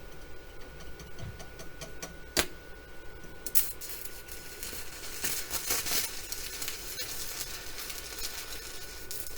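Welding arc from an inverter arc welder sizzling and crackling on the steel mower deck. A few sharp clicks come first, then steady crackling from about three and a half seconds in as the weld is run.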